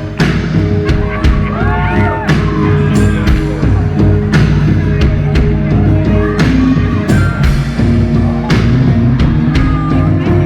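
Live band playing an instrumental passage of the song, with a drum kit keeping a steady beat under sustained instrument tones.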